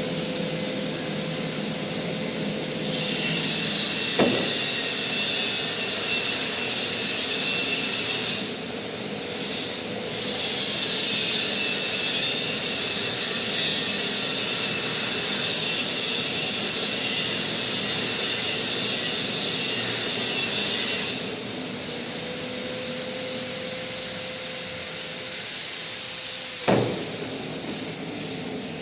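Manual metal lathe running steadily while cutting a 100 mm bolt thread, with two long stretches of louder high-pitched hiss as the tool takes its cut. Two sharp clicks, one about four seconds in and one near the end.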